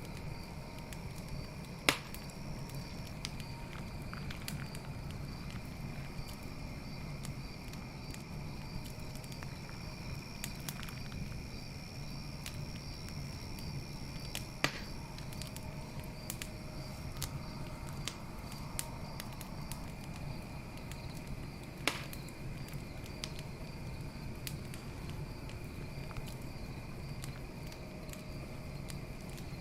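Campfire crackling with many small ticks and three sharp pops, over a steady high-pitched trilling of crickets in the background.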